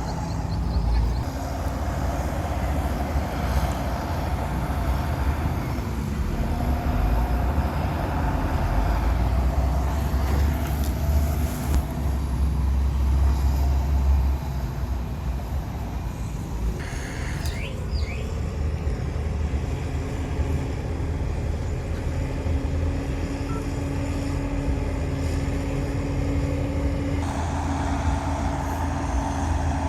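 Heavy diesel earthmoving machinery, the bulldozer and dump trucks, running steadily with a deep engine rumble that grows louder for several seconds before the middle. A steady engine tone comes in during the second half.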